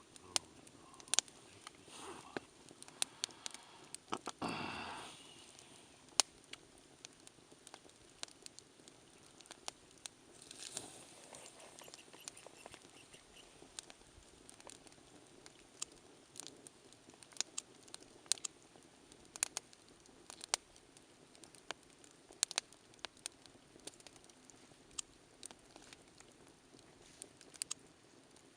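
Wood campfire crackling, with irregular sharp pops and snaps. A brief louder rushing swell comes about four seconds in, and a fainter one around ten seconds.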